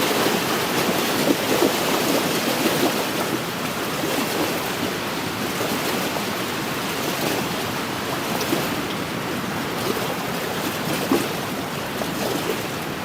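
Small wind-driven lake waves lapping and splashing against the shore: a steady wash of water broken by many small splashes.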